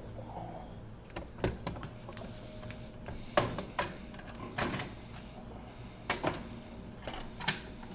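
Scattered clicks and knocks of a printer's print engine being handled: slid back along its mounting channels and lifted out of the chassis, hard plastic and metal parts bumping about half a dozen times.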